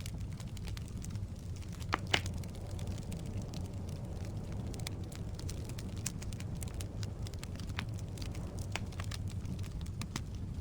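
Firewood burning in a fireplace: a steady low rumble of flame with scattered, irregular crackles and pops, the loudest pair about two seconds in.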